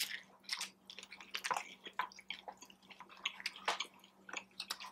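A person chewing food close to the microphone: a quiet, irregular run of short clicks and smacks from the mouth.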